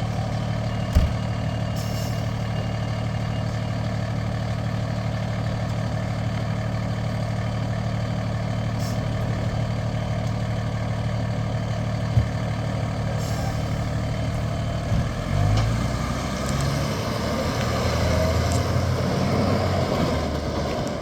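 A fire engine's engine idling steadily, with two short knocks, then accelerating about three quarters of the way in, its pitch climbing and stepping as it goes through the gears.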